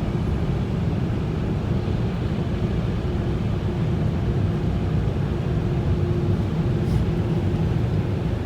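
Steady low rumble of a car's engine and tyres heard from inside the cabin while driving, with a faint steady hum over it.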